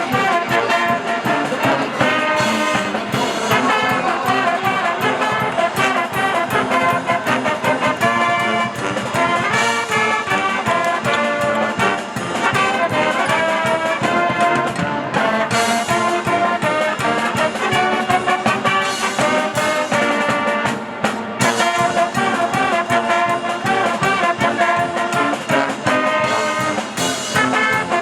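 Brass band music with trumpets and trombones over a steady beat.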